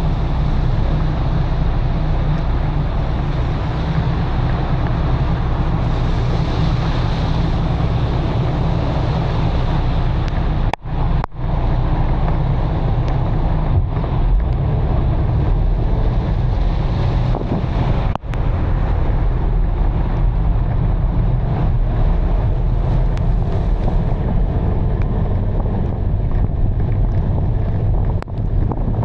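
Steady loud rushing noise with a heavy low rumble: wind buffeting the microphone while out in heavy rain. It drops out briefly three times.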